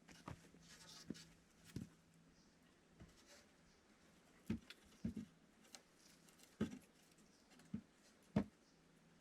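Faint, irregular light knocks and taps, a few seconds apart, with small handling sounds between them.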